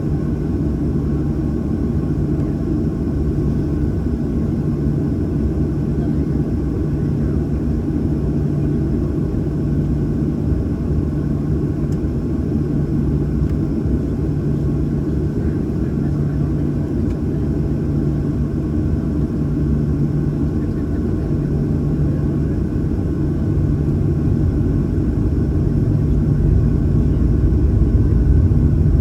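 Boeing 737-800's CFM56-7B jet engines running, heard inside the passenger cabin: a steady low rumble with a hum that pulses slowly, every couple of seconds. The sound grows slightly louder near the end.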